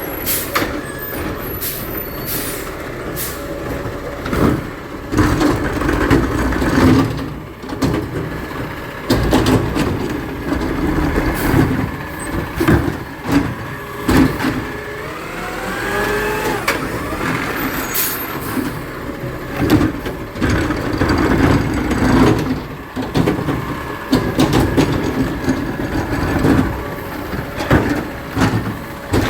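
Garbage truck at work: its engine running and rising in pitch several times, among many sharp bangs and clanks.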